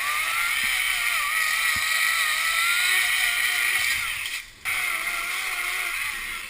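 Dirt bike engine running, its pitch rising and falling as the throttle is worked, over a steady hiss. The sound drops out briefly about four and a half seconds in and again near the end.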